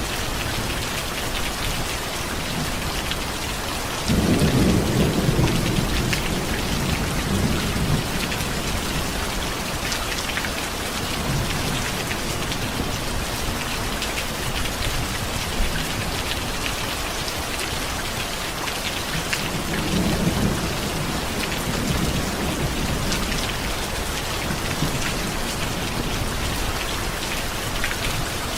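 Steady heavy rain falling, with rolls of thunder rumbling low: one breaks in suddenly about four seconds in and fades over several seconds, and another swells near twenty seconds.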